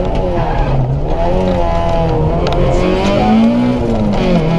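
Citroën Saxo VTS rally car's four-cylinder engine heard from inside the cockpit, driven hard. Its pitch drops about a second in, climbs for about two seconds, then drops again near the end.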